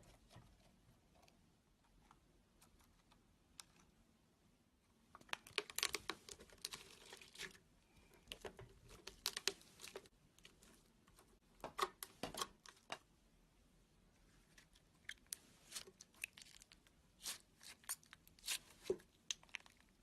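Slime being squeezed and stretched by hand, giving off sharp crackling and popping clicks in irregular clusters. The first few seconds are sparse; the crackling is densest about a quarter of the way in.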